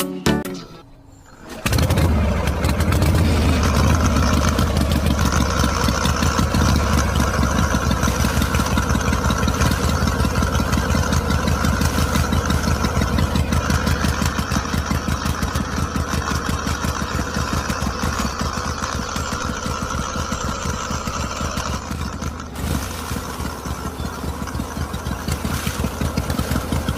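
A tractor engine starts about two seconds in, then runs steadily with a fast, even putter. It dips briefly near the end.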